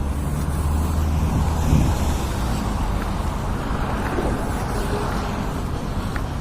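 Low, steady rumble of road traffic with wind buffeting the microphone; a vehicle's engine tone shifts about a second in.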